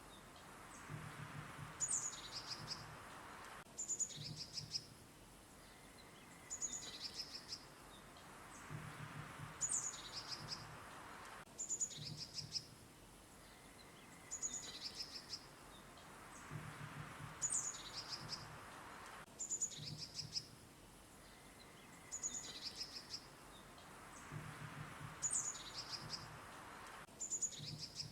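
Small songbirds chirping and trilling in short high bursts over a soft hiss, the same few seconds of song repeating about every eight seconds.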